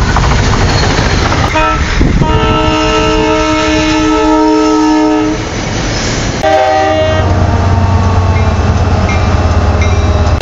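Trains passing, cut together: wheel-and-rail noise, then a train horn sounding a chord of several notes for about three and a half seconds. After a brief dip, a short horn blast, then a steady low locomotive engine drone.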